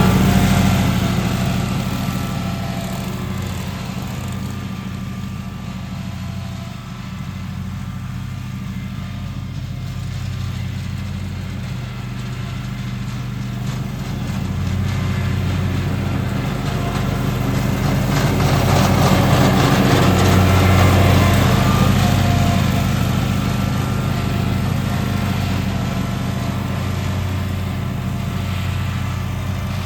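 Lawn mower engine running steadily, growing quieter and louder again as it moves, loudest about two-thirds of the way through.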